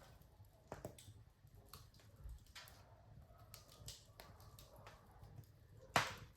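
Wood fire crackling in a fireplace: scattered sharp pops and snaps over a low, steady rumble, with the loudest pop near the end.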